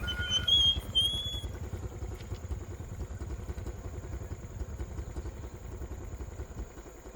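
A small engine running steadily with a fast, even low pulse, and a few high bird chirps in the first second or so.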